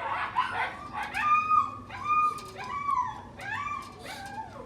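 Dog whining: about five short high whines, roughly one a second, each rising and then falling in pitch.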